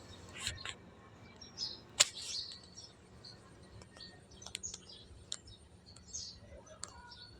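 Scattered short, high bird chirps, with a few sharp clicks; the loudest is a single sharp click about two seconds in.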